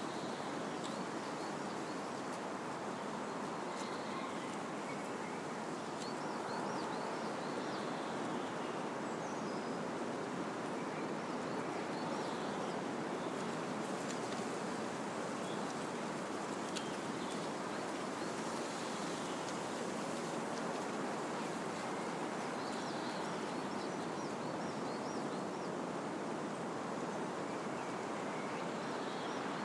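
Wind blowing steadily through trees, a constant rushing of leaves and branches, with faint bird chirps scattered through it.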